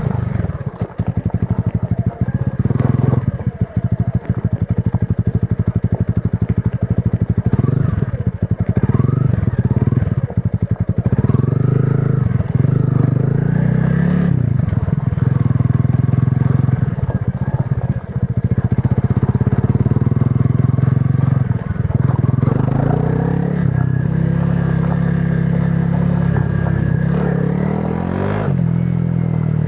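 Honda CRF300 Rally's single-cylinder four-stroke engine running through its stock exhaust under riding load, its pitch rising and falling with the throttle and running steadier for a stretch midway.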